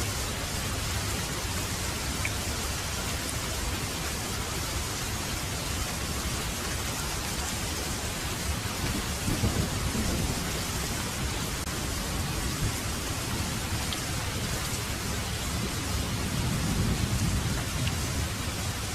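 Heavy rain falling steadily, with two low rumbles of thunder, one about halfway through and one near the end.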